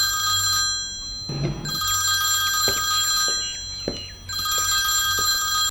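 Telephone ringing in repeated rings about a second and a half long, with a gap of about a second between them. A low thud falls in the gap after the first ring, over a steady low hum.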